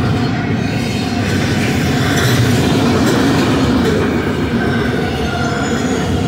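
Double-stack intermodal well cars of a freight train rolling past on the mainline: a loud, steady rumble of steel wheels on rail, with faint thin squealing tones from the wheels above it.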